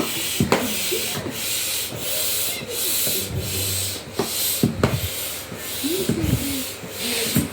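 Air pump worked in quick strokes to inflate an inflatable armchair, each stroke a rushing whoosh of air, about two a second.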